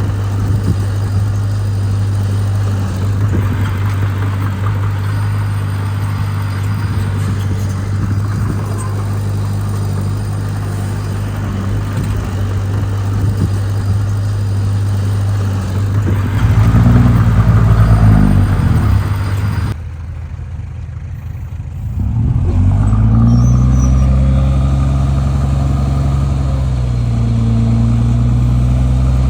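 Heavy diesel earthmoving machinery running steadily, then working harder with the engine pitch shifting about two-thirds of the way in. The sound drops away abruptly for a couple of seconds, then a diesel engine comes back, its pitch rising and falling as it revs under load.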